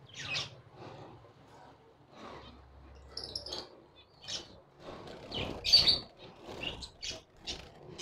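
Small cage birds chirping: short, high calls every second or so, the loudest about two-thirds of the way through.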